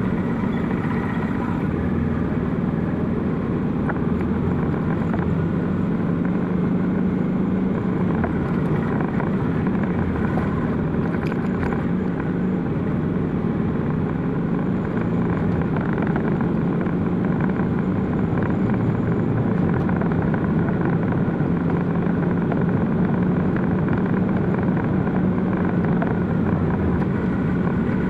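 Motorcycle engine running steadily while riding, with road noise underneath.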